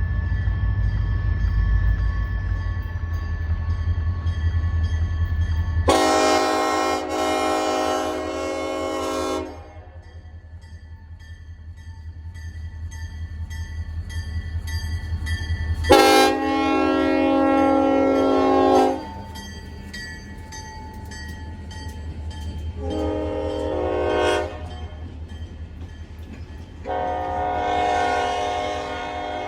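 Locomotive air horn, a five-chime Nathan K5LLA on an EMD SD40, sounding the grade-crossing signal: long, long, short, long. Under it runs the low rumble of the diesel engine and the train, loudest before the first blast.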